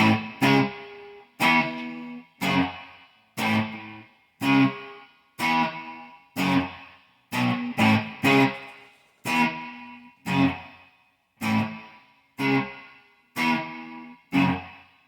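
Electric guitar with single-coil pickups, played through an amplifier and effects with some distortion: short chord stabs about once a second, each ringing out and fading, some struck twice in quick succession.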